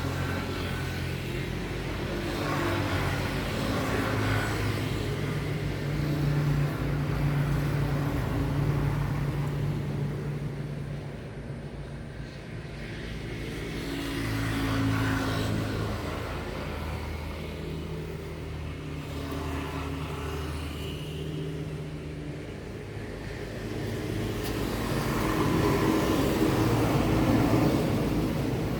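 Road traffic: motor vehicles passing one after another, their engine sound swelling and fading several times.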